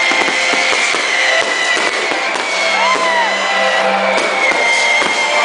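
Fireworks crackling and popping in quick, dense succession, with music playing over them.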